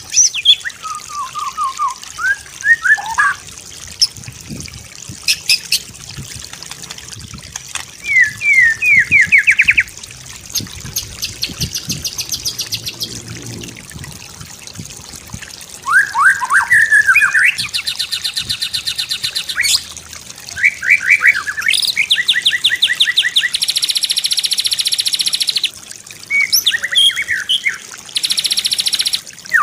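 White-rumped shama singing a varied song: clear slurred whistles and quick rising note series, broken by long, very fast buzzing trills and rattles high in pitch.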